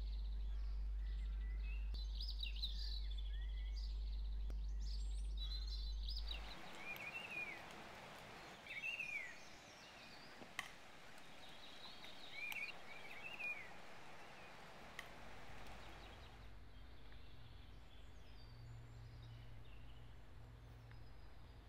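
Birds singing short chirps and warbling phrases. For the first six seconds they sit over a steady low hum, then over a soft outdoor hiss. After about sixteen seconds the birdsong thins to faint, quiet ambience.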